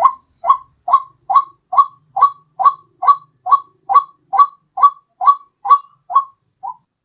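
White-breasted waterhen call from a bird-lure recording: a run of about sixteen short, rising notes at just over two a second, the last couple weaker before it stops.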